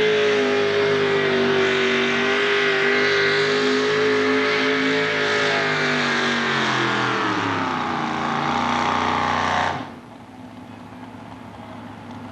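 A modified four-wheel-drive pulling truck's 648-cubic-inch naturally aspirated Ford engine running at full throttle. Its revs sag as the sled gets awful heavy, then the engine cuts off suddenly about ten seconds in at the end of the pull.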